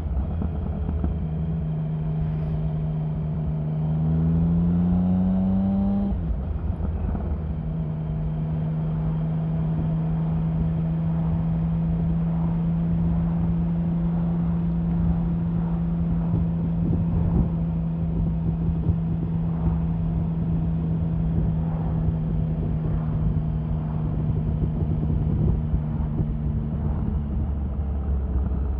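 Triumph Sprint 1050's three-cylinder engine under way: the pitch climbs for about two seconds, drops suddenly about six seconds in as the bike shifts up, then holds steady at cruising speed.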